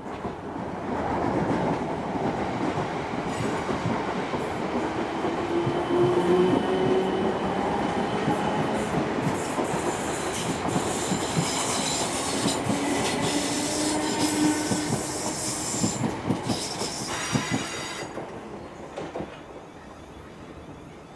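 A passenger train running past on the rails, its wheels clattering over the track joints, with high wheel squeal in the middle. It builds up about a second in and dies away near the end.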